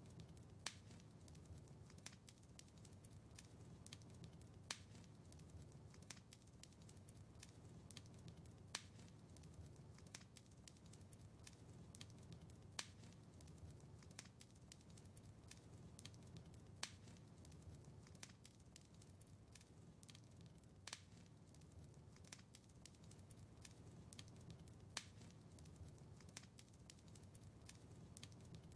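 Fireplace fire crackling faintly: a low rumble of flames under scattered small ticks, with a sharper pop about every four seconds.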